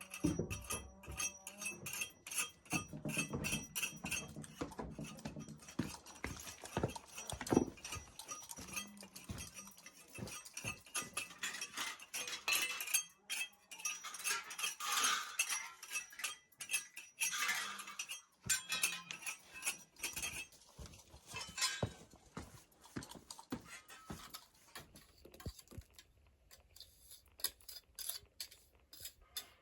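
Hand tools working a stone wall: repeated clinks, knocks and scrapes of a trowel and jointing tools against stone, mortar and a bucket while the joints are raked out and pointed with lime mortar, with a denser run of scraping about halfway through.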